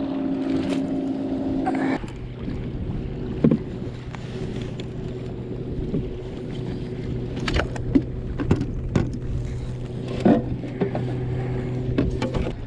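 Steady motor hum from a boat: a higher-pitched hum cuts off about two seconds in, leaving a lower steady hum. Scattered knocks and clicks of handling run over it.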